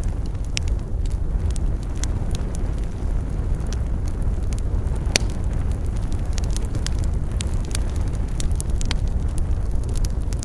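Wood campfire burning with a steady low rumble and irregular sharp crackles and pops, one louder pop about halfway through.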